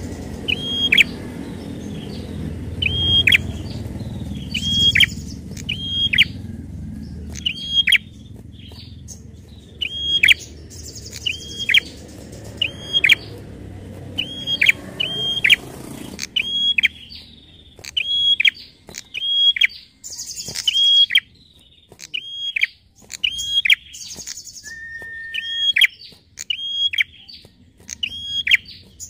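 Prinia (prenjak) calling, repeating one sharp, hooked chirp about once a second, with dry clicking notes between the chirps. A low background rumble fades out about halfway through.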